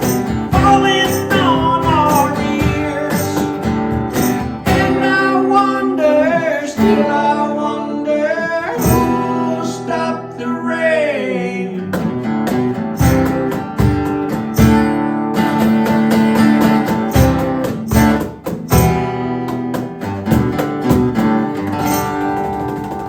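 Acoustic guitar strummed with a sung vocal line. The singing drops out about twelve seconds in, and the strumming carries on, getting quieter toward the end.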